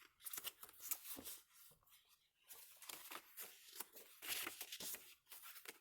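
Paper rustling faintly in short, irregular bursts, with small taps, as the pages of a handmade junk journal are turned and handled.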